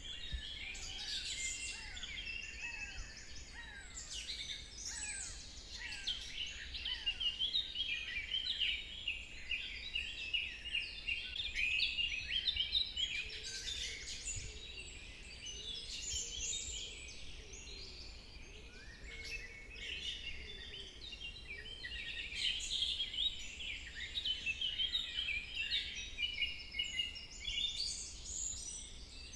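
Many songbirds chirping and trilling at once in forest ambience, a dense chorus of short overlapping high calls with no pause, over a faint steady low rumble.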